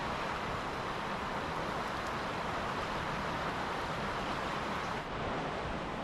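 A steady, even rushing noise with no distinct events, changing slightly about five seconds in.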